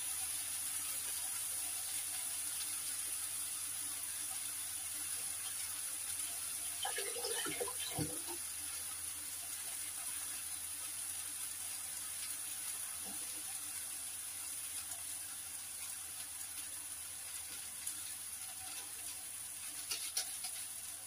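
Steady sizzle of food frying in oil in a stainless steel frying pan, with a short clatter of a utensil about seven seconds in and another near the end.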